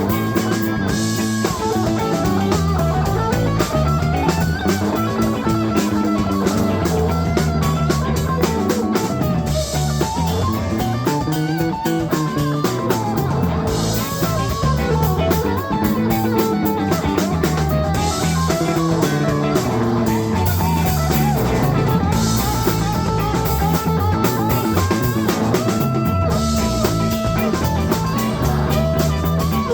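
A live rock band playing an instrumental break: the drum kit and bass keep a steady groove while one player takes a lead solo.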